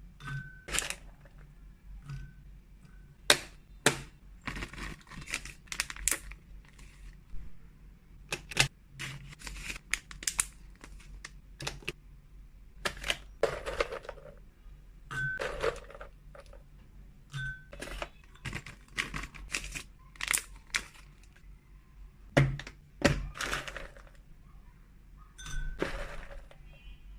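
Freeze-dried cat treats being portioned and packed by hand: hard, light pieces click and clatter, and plastic packaging crinkles and rustles. The taps come irregularly, several a second at times, and a few short beeps sound through it.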